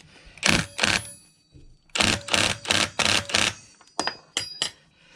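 Ratchet wrench tightening the large variator pulley nut on a scooter's CVT in short ratcheting strokes: two strokes, then four in quick succession, then a few short clicks, with a faint metallic ring.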